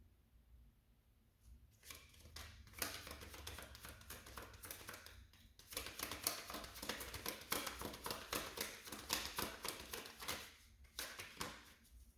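Tarot cards being shuffled by hand: a quick, dense run of papery flicks and clicks, pausing briefly twice.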